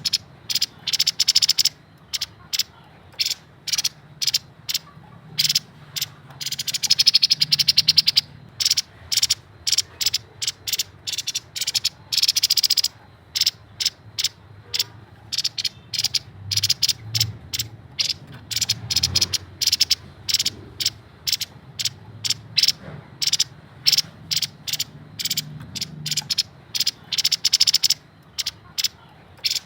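Grey-headed babbler (tepus kepala abu) calling continuously: a long run of sharp, clicking notes, several a second, with denser rattling trills about seven and twelve seconds in, over a faint low hum.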